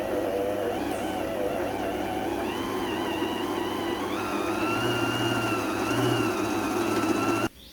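Electric blender running as it blends a fruit shake, its motor pitch wavering with the load, then cutting off suddenly near the end.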